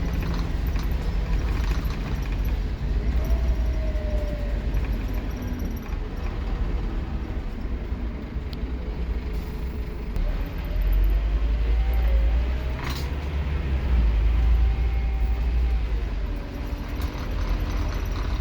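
Scania K230UB Omnilink single-deck bus, heard from inside, running with a deep steady rumble. The engine pulls harder twice, with faint gliding whines as it goes through the gears. A single sharp click comes about two-thirds of the way through.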